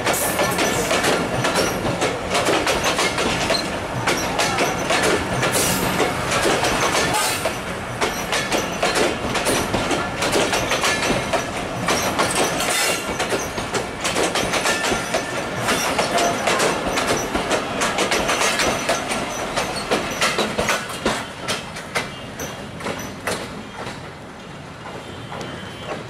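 Passenger coaches of a train rolling past close by, their wheels clattering in a rapid clickety-clack over the rail joints. The sound fades over the last several seconds as the end of the train moves off.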